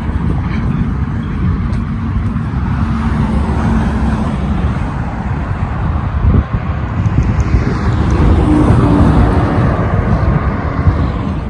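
Road traffic noise: a steady low rumble of vehicles, with a car passing close and growing louder in the last few seconds before the sound cuts off abruptly.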